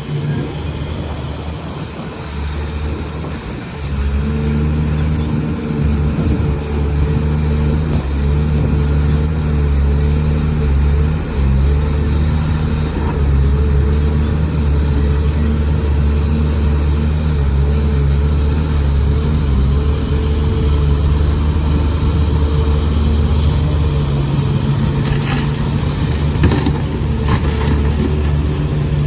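Excavator's diesel engine running steadily at working revs, getting louder about four seconds in. A few sharp knocks near the end.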